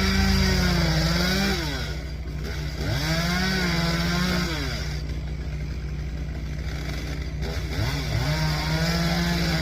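Stihl chainsaw engine revved up to full throttle three times, dropping back toward idle between bursts, with a lower engine note running steadily underneath.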